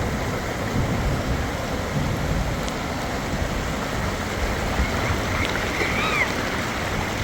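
Heavy rain and wind making a steady rushing noise, with gusts buffeting the microphone. About six seconds in, a cat meows once.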